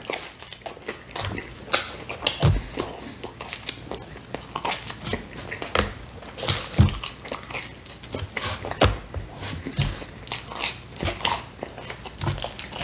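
Close-miked eating sounds: a man biting and chewing pizza crust, an irregular run of short crunches and wet mouth smacks.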